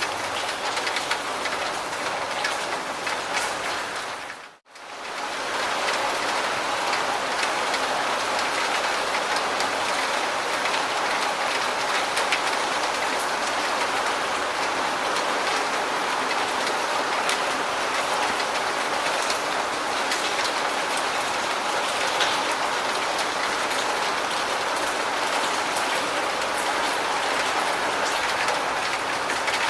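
Steady rain falling. About four and a half seconds in it drops out briefly to near silence and then fades back in.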